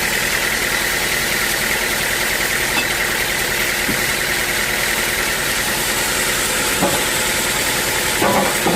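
Sawmill machinery running steadily, with a few short knocks near the end.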